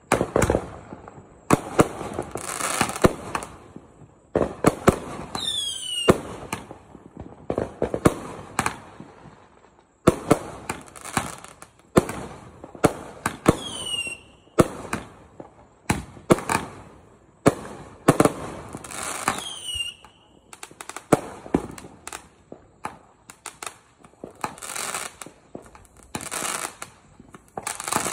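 Aerial fireworks launching and bursting overhead: a steady string of sharp bangs with crackle between them, and three falling whistles.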